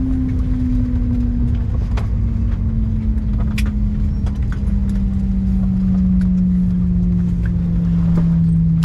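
Airbus A321 jet engine winding down, heard inside the cabin: a steady tone slowly falling in pitch over a deep, even rumble, with a few faint clicks.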